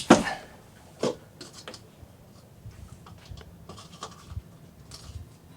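Two sharp knocks about a second apart, then faint clicking and scratching from hands working the marine toilet's fittings and plumbing.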